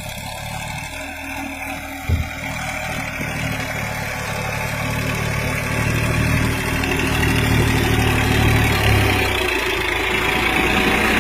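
Massey Ferguson 7250 tractor's diesel engine running steadily, growing gradually louder, with a short knock about two seconds in.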